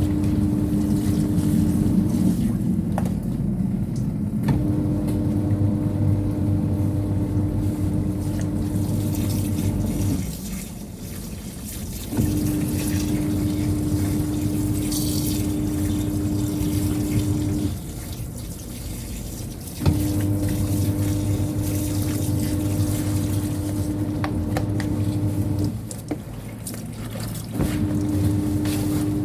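Semi-automatic twin-tub washing machine's wash tub running a rinse, its motor humming with water sloshing, in cycles of about six seconds running and two seconds paused as the agitator stops and reverses.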